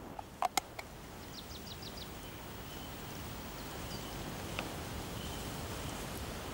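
Steady outdoor ambience with a bird calling: a quick run of about five short high notes about a second and a half in. A couple of sharp clicks come just before it.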